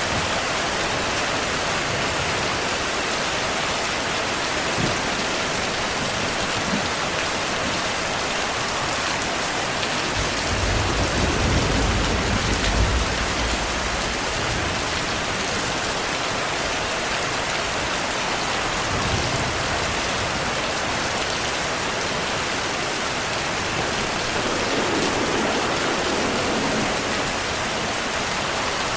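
Steady heavy rainfall, with a low roll of distant thunder rumbling for several seconds about ten seconds in.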